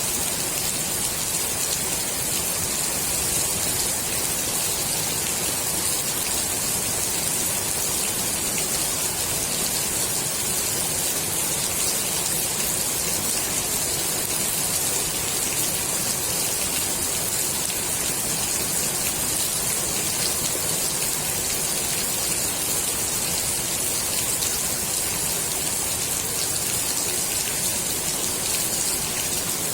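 Steady rain falling onto the water of a swimming pool: an even, unbroken hiss of many drops.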